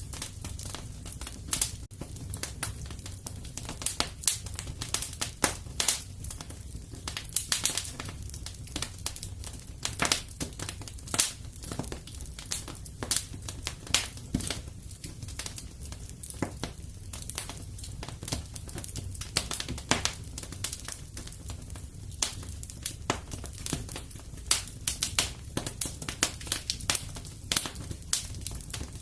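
Fireplace fire crackling: irregular pops and snaps, some louder than others, over a steady low rumble.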